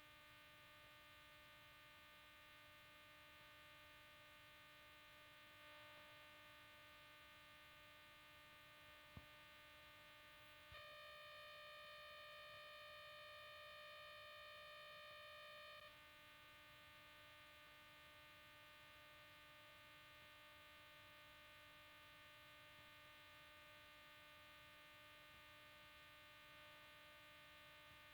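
Near silence with a faint steady electrical hum of several tones; for about five seconds in the middle it switches to a slightly louder, higher-pitched set of tones, then returns.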